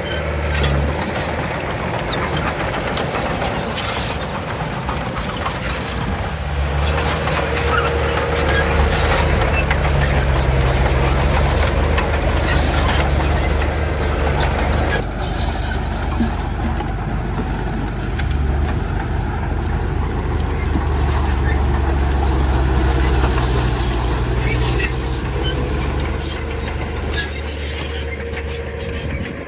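Komatsu D31 crawler bulldozer's diesel engine running under load as it pushes soil, with a steady low engine note. About halfway through, the higher, harsher part of the sound drops away.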